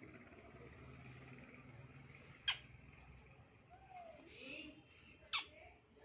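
Baby sun conure giving two short, sharp calls about three seconds apart, over a faint low hum.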